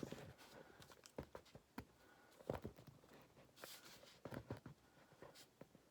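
Near silence with faint, scattered clicks and taps from hands handling a bench vise and the wood test piece clamped in it.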